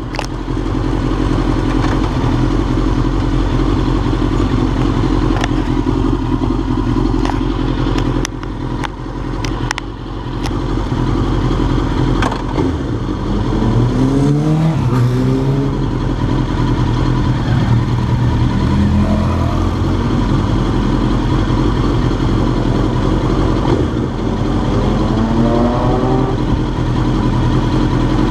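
Suzuki GSX-R1000 inline-four engine slowing and idling at a standstill, with a few sharp clicks and brief rises in engine pitch twice.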